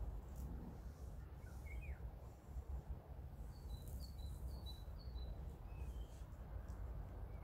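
A small bird chirping over a faint steady low rumble of outdoor background noise: a couple of notes about two seconds in, then a quick series of short high chirps in the middle.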